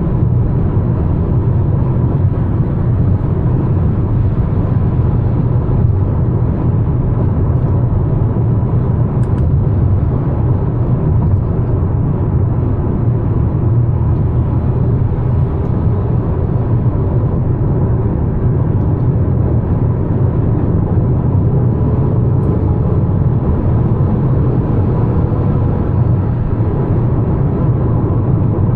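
Steady driving noise of a Mazda CX-5 with the naturally aspirated 2.5-litre four-cylinder e-SKYACTIV G engine: an even low rumble of engine, tyres and road at a constant pace, with a faint steady high tone above it.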